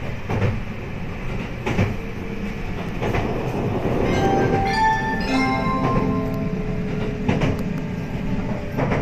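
285-series sleeper electric train running, heard from inside a car's vestibule: a steady rumble with occasional wheel clacks over rail joints. From about four seconds in, a short chime melody plays over the train's PA, the signal that comes before an onboard announcement.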